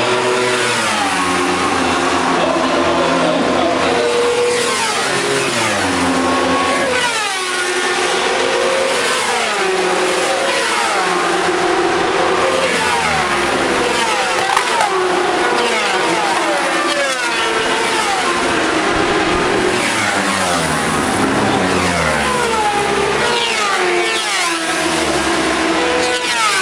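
A pack of racing motorcycles going past one after another at full throttle. The engines rev up through the gears in repeated rising sweeps and drop in pitch as each bike passes.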